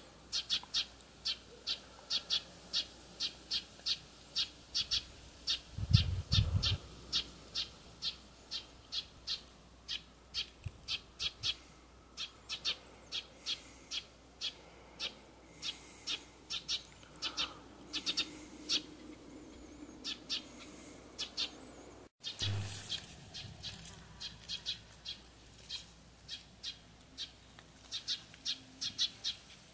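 A bird giving short, high chirps, evenly repeated about two or three a second. A brief low thump comes about six seconds in, and the sound drops out for an instant about two-thirds of the way through before the chirping resumes.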